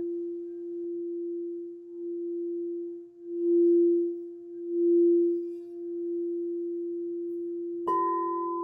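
Singing bowl ringing with one steady, sustained tone that swells louder twice in the middle. Near the end a second, higher-pitched bowl is struck and rings on over it.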